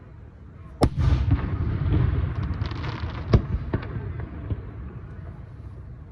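Aerial fireworks bursting: a sharp bang about a second in, followed by a rumbling crackle for a couple of seconds, then another sharp bang and a few smaller pops.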